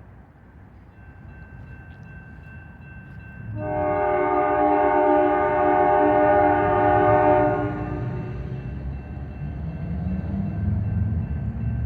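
Lead locomotive's K5LA air horn, on a GE Dash 9-44CW diesel, sounding one long chord of about four seconds that starts about three and a half seconds in. Under and after it, a low rumble from the approaching diesel locomotives grows louder.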